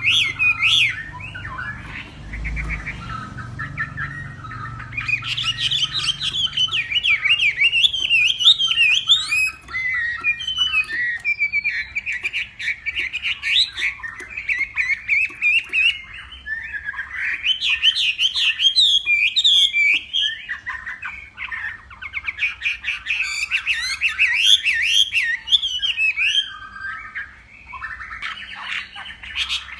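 Chinese hwamei singing a long, varied song of fast warbled and whistled phrases, with a few short quieter stretches between bursts.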